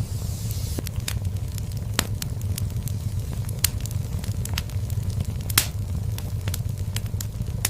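Wood fire in a fireplace crackling, with frequent sharp pops over a steady low rumble of burning. The loudest pop comes about five and a half seconds in.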